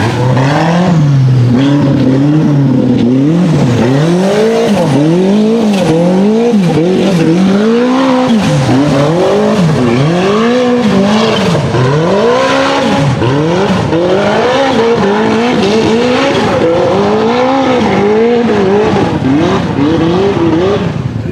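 Turbocharged race buggy engine revved hard and let off again and again, its pitch climbing and dropping roughly once a second, as it works up a rough hill-climb course.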